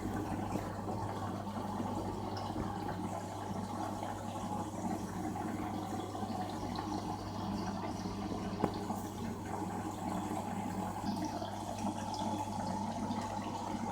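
LG FH0B8NDL22 front-loading washing machine in its rinse cycle: water running into the drum and sloshing over a steady low hum, with one click about nine seconds in.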